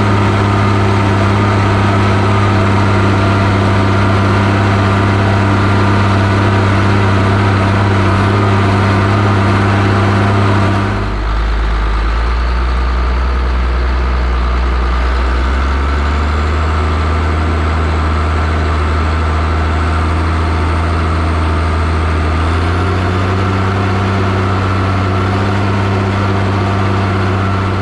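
Zetor 16145 tractor's six-cylinder turbo diesel running steadily at working speed during field cultivation. About 11 seconds in its note drops sharply to a lower engine speed, then climbs back up in two steps.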